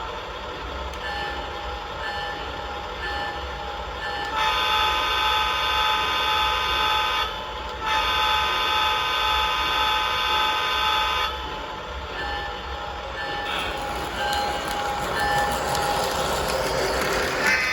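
Toy O gauge Lionel Lehigh Valley diesel locomotive's electronic sound: a steady repeating ding, then two long horn blasts a moment apart, then the dinging again, over a constant low hum from the running train.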